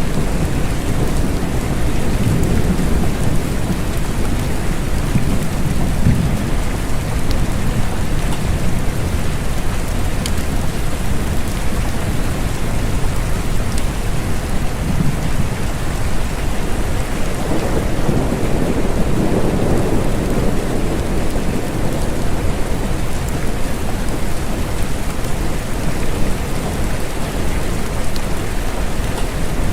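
Steady rain falling, with low rolling rumbles of thunder that swell and fade a few times, the longest about two-thirds of the way through.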